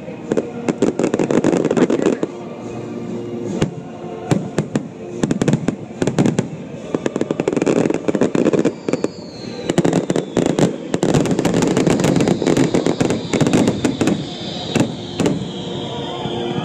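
Fireworks finale barrage: a rapid, continuous run of sharp cracks and booms from many aerial shells bursting in quick succession. The show's music plays underneath.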